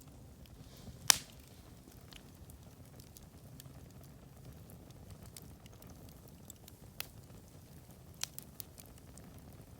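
Wood campfire crackling: a steady soft background of burning, scattered small ticks, a sharp loud pop about a second in, and a few smaller pops in the last three seconds.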